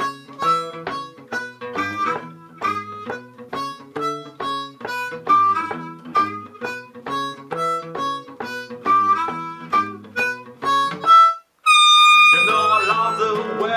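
Acoustic instrumental break in a blues song: a steady rhythm of short picked notes, a brief stop about eleven seconds in, then one long held high note before the playing picks up again.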